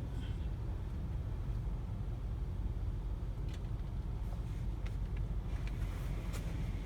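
Steady low rumble of an automatic car wash with a car inside it, with several light taps in the second half.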